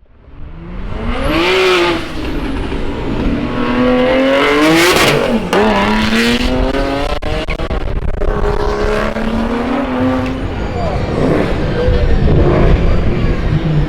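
Turbocharged straight-six of a heavily tuned BMW 335i E91, 900+ hp, through an Akrapovic exhaust, accelerating hard. Its pitch climbs, drops and climbs again through several gears, loudest about five seconds in.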